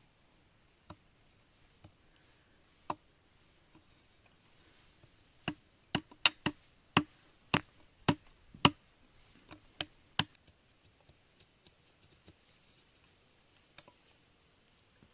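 Sharp knocks, a few spaced out at first, then a quick run of about a dozen loud ones over roughly four seconds, then only faint ones.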